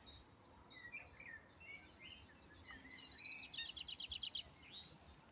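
Faint songbirds chirping in woodland, with scattered short high calls and, past the middle, a fast trill of about ten notes a second lasting about a second and a half.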